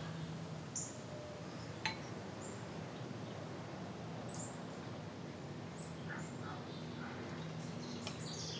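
Faint birds chirping in short, scattered high chirps over quiet room tone with a low steady hum. There is a single light click about two seconds in.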